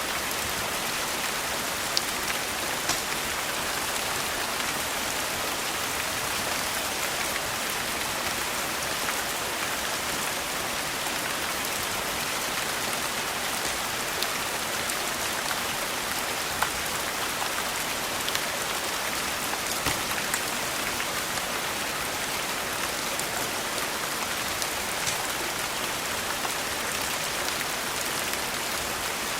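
Steady rain falling, an even hiss, with occasional sharp clicks a few seconds apart.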